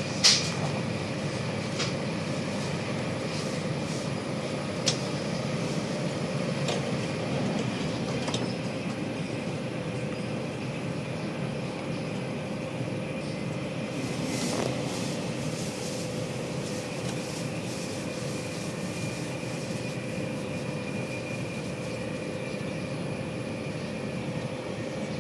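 Queensland Rail Tilt Train running along the track, heard from inside a passenger carriage: a steady rumble of wheels on rail with a constant hum. Occasional sharp clicks and knocks sound over it, most in the first several seconds and again around the middle.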